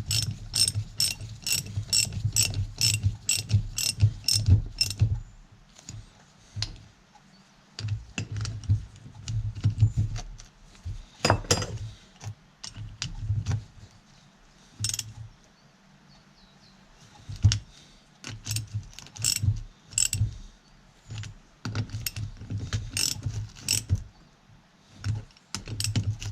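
Hand socket ratchet clicking in runs, about three clicks a second, as bolts on a hydraulic pump are run down before being torqued, with short pauses between runs.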